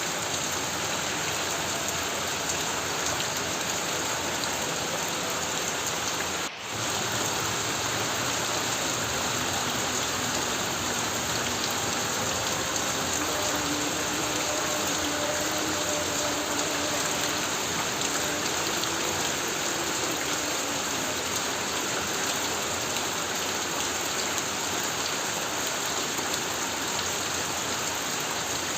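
Heavy rain drumming steadily on a corrugated tin roof, with a brief dip in level about six and a half seconds in.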